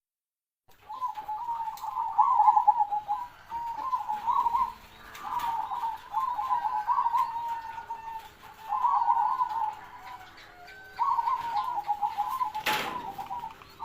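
Zebra dove (perkutut) cooing in its rapid, bubbling phrases, repeated about six times with short pauses between them. A sharp click sounds near the end.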